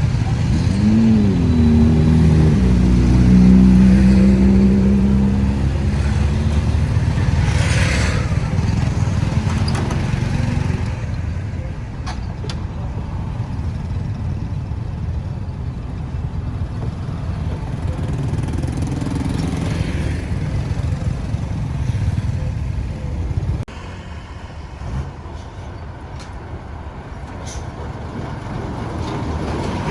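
Road traffic: vehicle engines passing close by, one engine revving up in pitch near the start and running steadily for several seconds before the traffic sound thins out. The level drops suddenly about three quarters of the way through.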